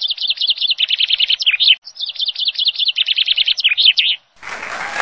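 A songbird singing two identical rapid trilling phrases of about two seconds each, with a short pause between them. Music starts near the end.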